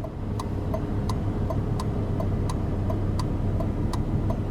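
Hazard-light flasher ticking at a regular pace, about one and a half clicks a second, over the steady idle of a Lamborghini Gallardo LP570-4 Superleggera's V10.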